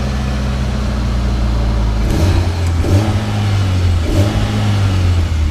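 BMW E36 engine running at idle and revved briefly a couple of times, about two and four seconds in.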